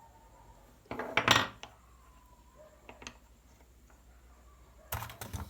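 Small metal tool and motor parts clinking and clattering as they are handled on a workbench: a loud cluster of knocks about a second in, then a light click near the middle.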